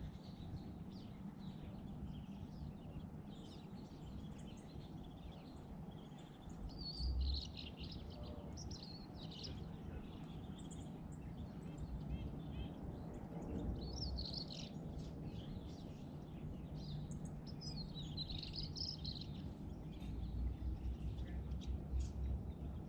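Small birds chirping in short, scattered calls over a steady low background noise, with a few brief low rumbles about seven seconds in, again about halfway through, and near the end.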